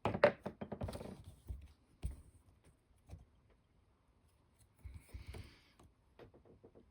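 Light clicks and knocks of small wooden kit parts and tools being picked up and set down on a workbench, thickest in the first second or so, with a brief scraping rustle about five seconds in.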